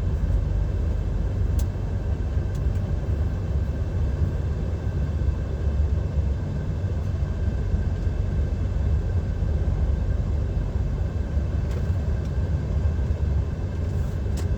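Steady low rumble inside the cab of a DAF XF 530 lorry under way: diesel engine and road noise at a constant pace, with a faint steady whine above it and a few light clicks.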